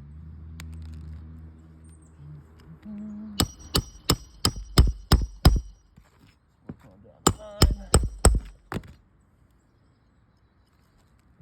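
Hammer driving roofing nails to fasten a replacement asphalt shingle: two runs of quick, ringing blows, about eight and then, after a short pause, about five more.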